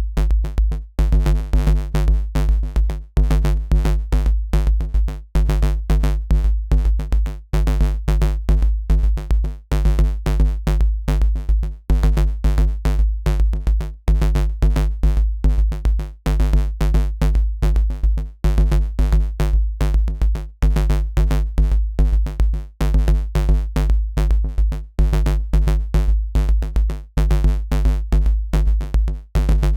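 Dirty FM synth bass riff looping, with a heavy sub-bass layer under fast, repeated stuttering notes; the pattern repeats about every two seconds.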